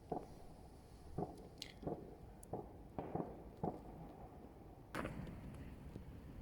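Distant fireworks going off: faint, scattered bangs about one or two a second, with a sharper crack about five seconds in.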